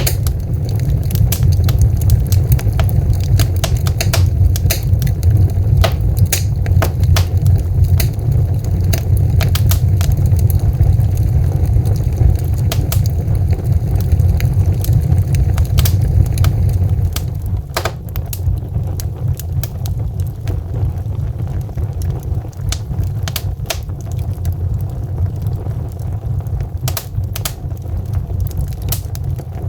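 Logs burning in a fireplace: many irregular sharp crackles and pops over a steady low rumble of flame. The rumble eases slightly a little past halfway.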